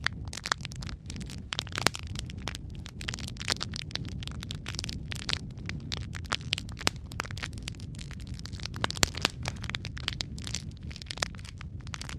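Wood fire crackling: irregular sharp snaps and pops, several each second, over a steady low rumble of the flames.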